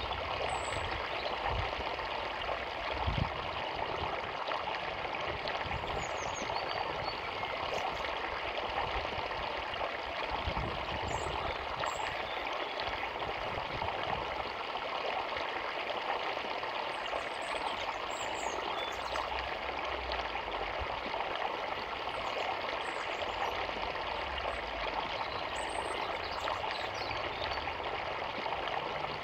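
A small forest river flowing, a steady rush of running water, with faint, brief high bird chirps scattered through it.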